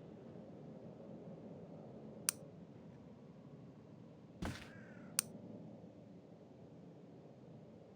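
Two sharp clicks, about three seconds apart, with a dull thump and a short falling squeak between them, over a faint low hum.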